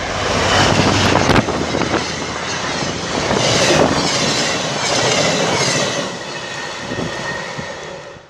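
Train rolling past at close range, wheels clacking over the rail joints, with high wheel squeal in the middle. The sound fades out at the very end.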